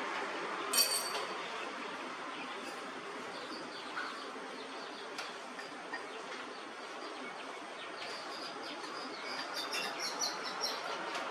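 Birds chirping in short high notes, once about a second in and in a quick run near the end, over a steady low background noise.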